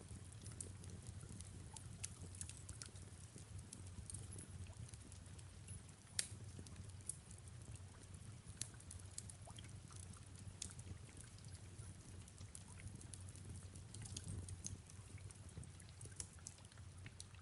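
Fireplace crackling: irregular small pops and snaps, one louder pop about six seconds in, over a low steady rumble, with soft rain falling.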